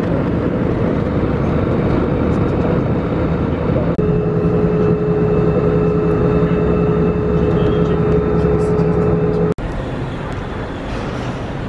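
Loud steady rumble of a moving vehicle, in three stretches joined by abrupt cuts about four and nine and a half seconds in; the middle stretch carries a steady hum.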